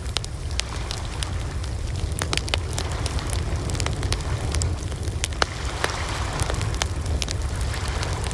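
Wood fire crackling, with frequent sharp snaps and pops at irregular intervals over a steady low rumble.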